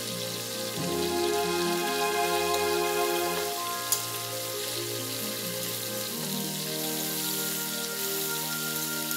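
Sliced bell peppers, onion rings and garlic cloves sizzling in oil in a frying pan, a steady hiss, with one sharp click about four seconds in as metal tongs turn a pepper ring. Soft background music of slow held chords plays over it.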